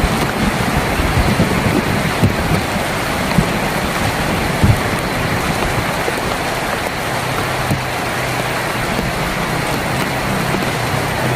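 Heavy rain drumming steadily on a tin roof, with a few heavier drop thuds in the first half. A low steady hum comes in during the last few seconds.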